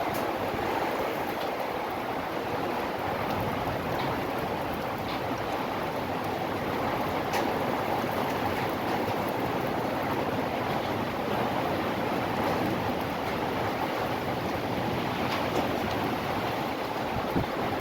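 Hail and rain falling in a strong wind: a steady, dense rush with a few sharp ticks of hailstones striking scattered through it.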